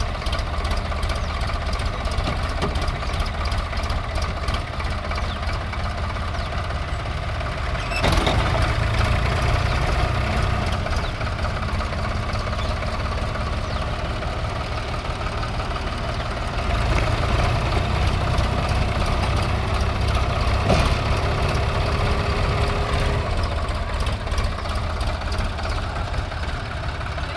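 Tractor diesel engine running steadily. It gets louder for a few seconds about a third of the way in, and again for several seconds from a little past halfway until near the end.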